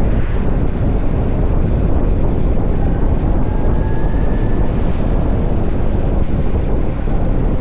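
Wind buffeting the microphone of a rider on a moving electric motorcycle: a loud, steady low rumble. A faint thin whine rises briefly about three to four seconds in.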